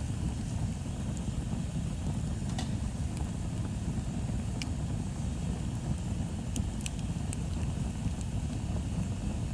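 Bonfire burning: a steady low rumble with a few sharp crackles and pops from the burning wood, about five scattered through.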